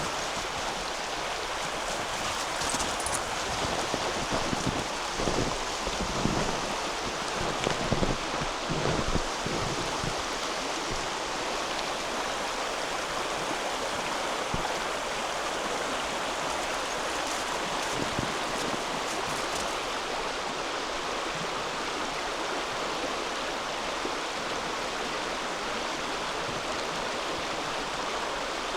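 Křemelná River flowing, a steady rush of running water. A few dull low thumps sound close by in the first third.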